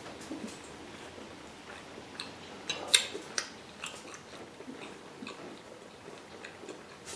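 A person chewing a mouthful of rice and meat: soft mouth sounds with scattered small clicks, a few sharper ones about three seconds in.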